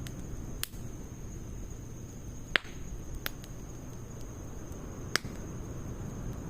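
Firewood burning in a Snow Peak fire stand, a low steady rush with four sharp crackling pops, the loudest about two and a half seconds in.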